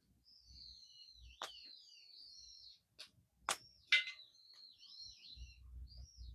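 A small songbird singing a long, fast, warbling song, pausing once midway, with a few sharp pops from a crackling campfire, the loudest two around the middle.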